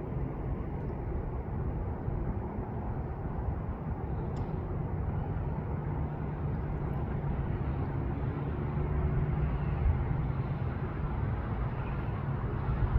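Steady low rumble of outdoor background noise with a faint hum beneath it, swelling a little around the middle.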